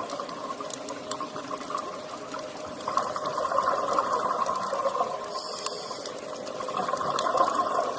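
Steady water sound with faint scattered ticks, a little louder from about three seconds in.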